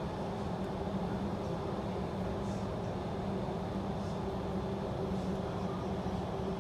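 Steady drone inside a passenger train carriage, an even rumble with a constant low hum running through it.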